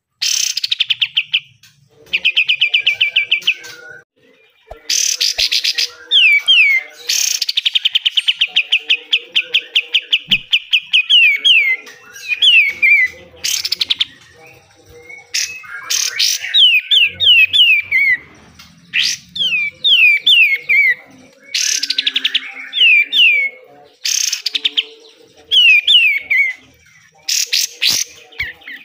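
A kapas tembak songbird singing hard. Harsh rasping blasts each lead into a fast rattling trill of repeated high notes, alternating with quick runs of two to four downward-slurred whistles, over and over.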